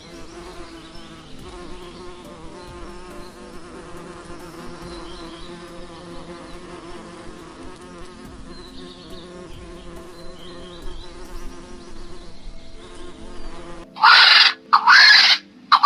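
Insect buzzing steadily, like a bee or fly in flight, for most of the time. Near the end it gives way to two loud, shrill animal calls in quick succession.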